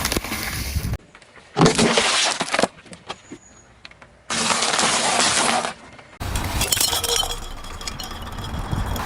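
Brittle objects crunching, cracking and breaking with a glassy crackle as a car's tyre rolls over them. The sound comes in several separate takes, each a second or so long, with abrupt cuts between them.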